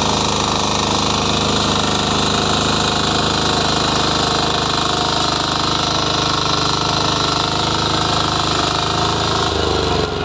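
Power weeder's small engine running hard with a dense mechanical rattle. About nine and a half seconds in, its pitch drops as it slows toward idle.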